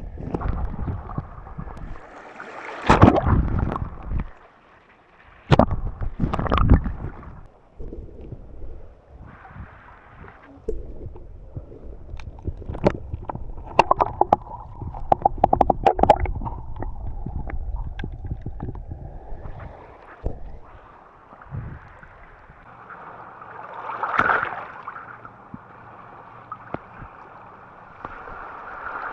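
Lake water washing and sloshing onto a pebble beach in irregular surges, with a run of sharp clicks in the middle.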